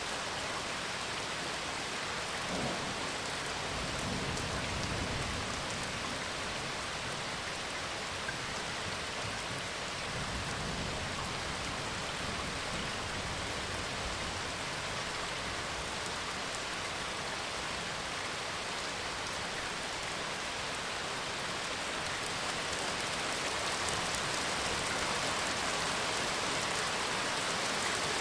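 Steady rain falling, with low thunder rumbling a few seconds in and again around ten seconds in.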